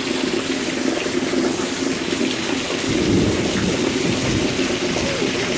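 Heavy rain pouring down in a steady hiss, with a low rumble that swells about three seconds in.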